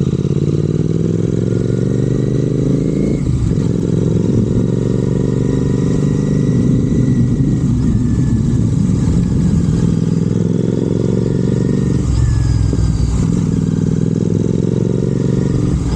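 Royal Enfield Continental GT 650's parallel-twin engine through Red Rooster aftermarket exhausts, running loud and raw while riding. The pitch climbs slowly, with two short breaks about three and twelve seconds in, each followed by the pitch rising again.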